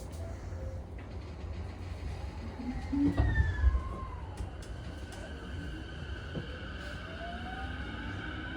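E233-1000 series electric train's Mitsubishi IGBT inverter and traction motors starting to pull away: a heavy thud about three seconds in, then steady high inverter tones come in and a whine rises steadily in pitch as the train accelerates, over a low rumble.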